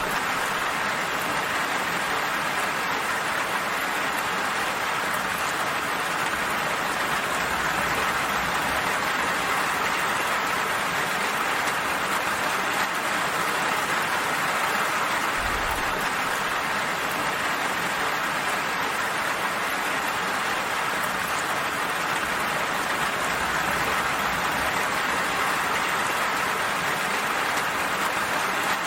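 Steady, even rainfall: a continuous hiss of rain falling on surfaces, without thunder or other events.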